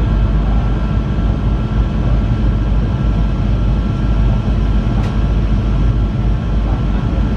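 Cabin noise inside an Airbus A380 on the ground with its engines running: a steady low rumble with a faint steady high whine. A short tick sounds about five seconds in.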